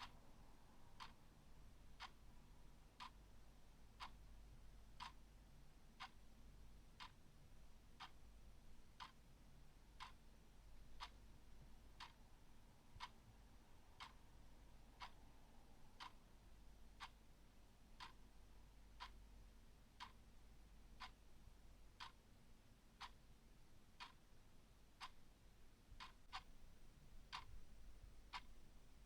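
Clock ticking steadily, faint, about one tick a second.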